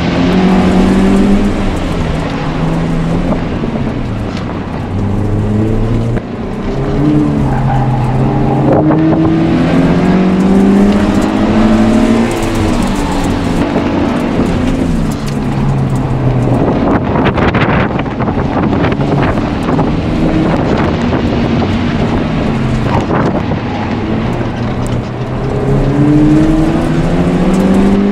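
Subaru BRZ's flat-four engine, heard from inside the car on an autocross run. Its pitch repeatedly climbs under acceleration and drops back on lifting off for the corners, over steady road and wind noise.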